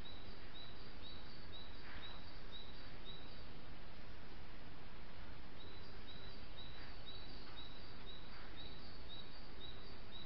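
A small songbird repeating a short two-note phrase, high and clear at about three notes a second, in two runs with a pause of a few seconds between them, over the steady hiss of a trail camera's microphone.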